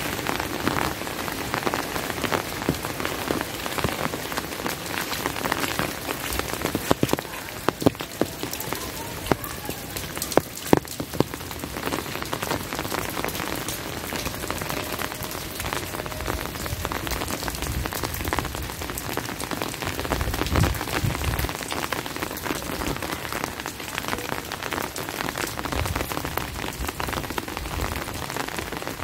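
Steady rain falling, a dense patter of drop hits with a run of louder, sharper drop impacts about a third of the way in.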